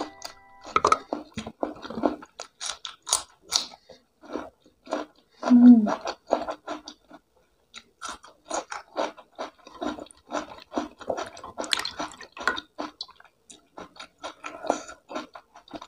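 A person chewing mouthfuls of spicy beef stir-fry eaten by hand, a string of short, irregular wet clicks and crunches, with one louder low sound about five and a half seconds in.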